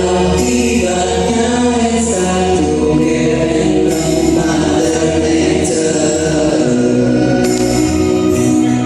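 A vocal group singing a song in harmony, several voices holding chords that change every second or so over a steady low bass line.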